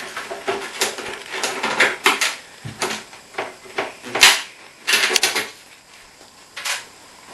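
Irregular clicks and knocks of a screwdriver and hands working a screw out of a dishwasher door's front panel, with a few sharper knocks about four and five seconds in.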